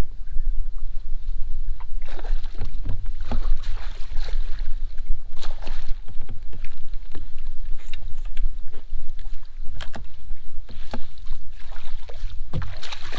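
Wind rumbling on the microphone aboard a fishing kayak, with irregular knocks and clattering starting about two seconds in.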